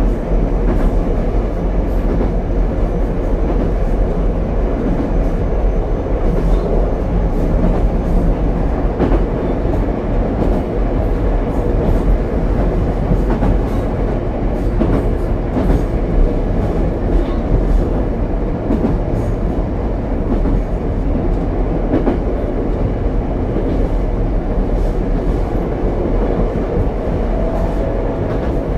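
Ichibata Electric Railway 7000-series single-car electric train running between stations, heard from inside the car: a steady rumble of wheels on rail with faint scattered clicks from the track.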